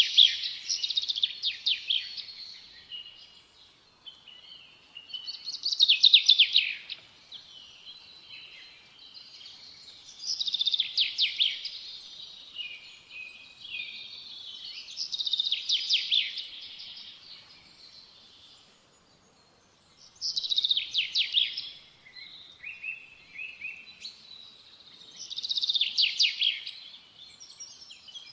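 A bird singing: repeated phrases of rapid, high-pitched notes, one about every five seconds.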